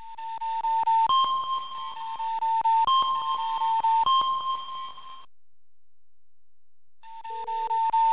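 Electronic alert tones from a live seismic monitor, triggered by the earthquake's arriving waves. The beeps step between two close pitches over a fast ticking for about five seconds, stop, and start again about seven seconds in with a short lower tone.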